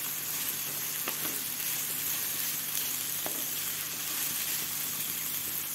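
Sliced onions, chopped garlic and green chilies sizzling steadily in hot oil in a wok as they are sautéed and stirred with a wooden spatula. Two faint clicks come through, about a second in and just past three seconds.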